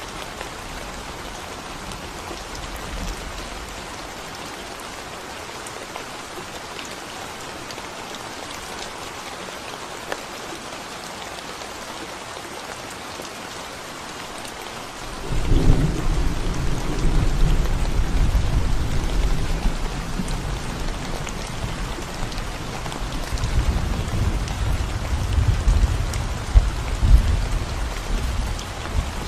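Steady rain hissing on a concrete road. About halfway through, a deep low rumble sets in suddenly and keeps rolling, swelling and fading, to the end.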